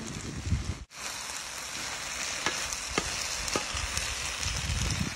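Pork skins and sliced vegetables sizzling as they fry in oil in a pan while they are stirred, with a few light clicks. The sound cuts out briefly about a second in.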